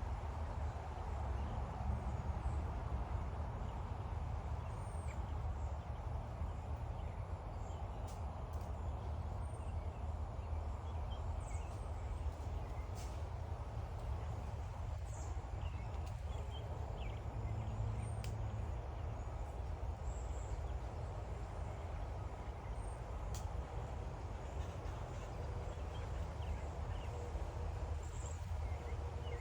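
Steady low rumble of machinery, with many short, high bird chirps and calls scattered over it.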